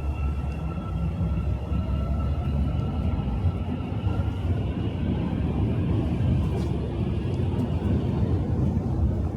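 Metro train running with a steady low rumble, a thin high whine over it that fades out about halfway through.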